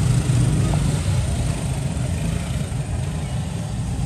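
Steady low rumble of engine-like background noise.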